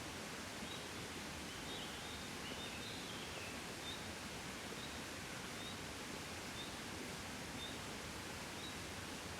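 Gentle wind blowing steadily, a soft even rush of air. A faint high chirp repeats about once a second over it, with a brief run of falling chirps two to three seconds in.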